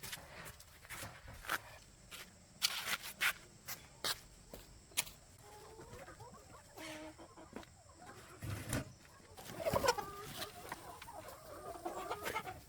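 Chickens clucking, beginning about halfway through and getting busier near the end, with a scatter of sharp taps and knocks in the first half.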